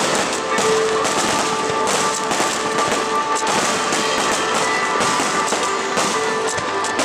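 Fireworks bursting and crackling densely without a break, with music playing through it.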